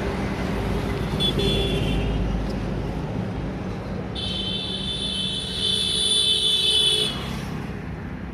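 A truck's horn sounding high and tonal, a short toot about a second in and then a long blast of about three seconds, over a steady engine running at idle.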